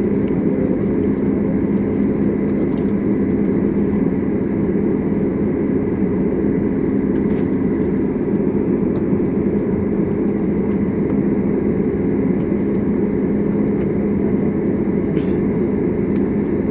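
Steady drone inside a passenger jet's cabin on the ground before the takeoff roll: the engines running at idle, with a low hum carrying a few steady tones.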